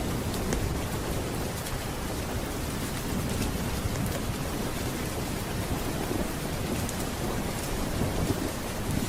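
Steady rain with a low rumble of thunder underneath, and a few faint scattered ticks.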